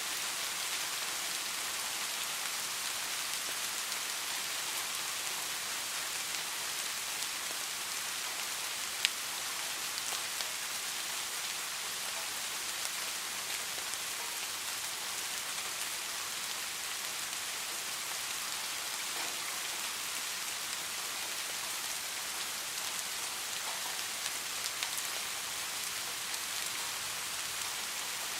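Steady rain falling, an even hiss with scattered individual drops ticking on a surface, one sharper drop about nine seconds in.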